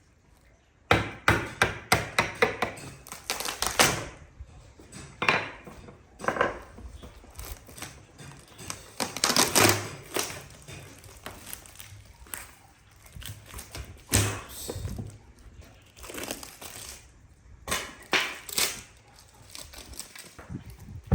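Irregular knocks, taps and thuds of woodworking handwork, with quieter scraping between. There is a quick run of taps in the first few seconds, then louder knocks every second or two.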